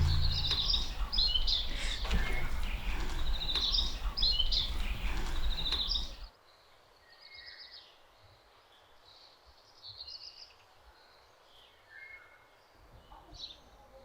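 Small birds chirping repeatedly over a steady low outdoor rumble. About six seconds in the rumble cuts off abruptly, leaving only faint, scattered bird chirps.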